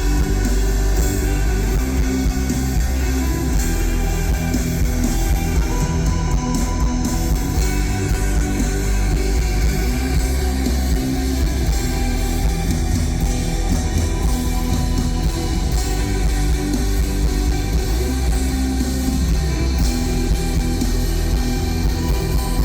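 Live rock band playing an instrumental passage, with distorted electric guitars, bass and drum kit, loud and steady as heard through a phone microphone at a concert.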